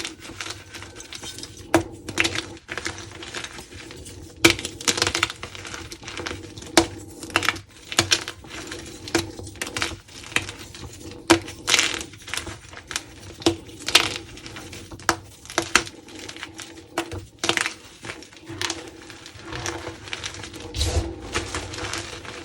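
Dyed gym chalk crunching and crumbling, a run of sharp, irregular crunches a few times a second with a gritty crumble between them.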